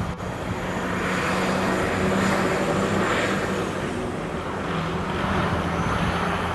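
GP38 diesel locomotive engine running steadily, with an even low hum over a broad rushing noise.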